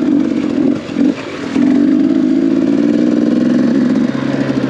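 Dirt bike engine running, with a couple of brief throttle dips in the first second or so, then holding steady. About four seconds in it drops to a lower, evener note as it settles toward idle.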